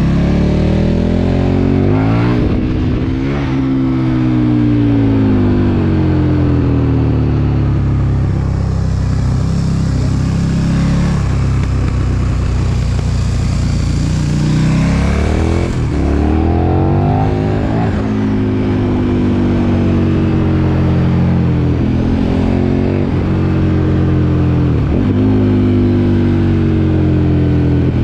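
KTM 1290 Super Duke R's 1301 cc V-twin engine under way, its pitch repeatedly rising under throttle and falling away, with several quick breaks in the note at gear changes. Wind rush is mixed in.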